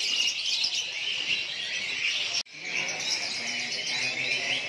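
Many caged songbirds chirping and twittering at once, a dense overlapping chorus of short high calls, broken off for an instant about halfway through.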